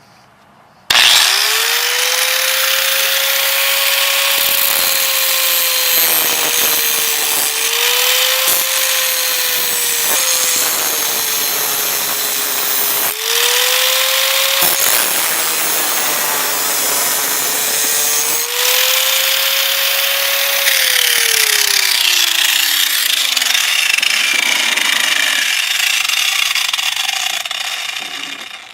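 Electric power tool cutting through the steel casing of a MotorGuard spin-on oil filter. The motor starts about a second in, its pitch sagging and recovering several times as it bites, then winds down with a falling pitch about two-thirds of the way through.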